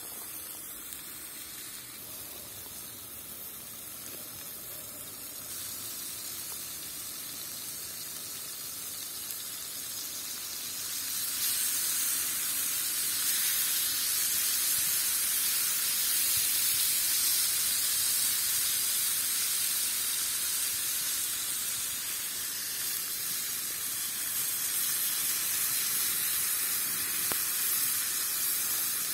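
A steady hiss that grows louder about eleven seconds in, then holds.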